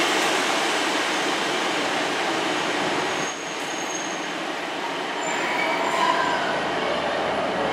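A train running close by along the track. About three seconds in it cuts to a Class 150 Sprinter diesel multiple unit pulling into the platform, with faint high wheel or brake squeals as it comes in.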